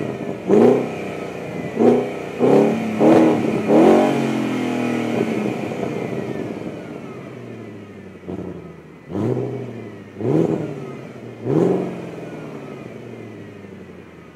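Audi RS 6 engine with an emptied, unmuffled exhaust, revved in short sharp blips: five quick revs in the first four seconds, the revs then sinking back over a few seconds, then three more blips about a second apart.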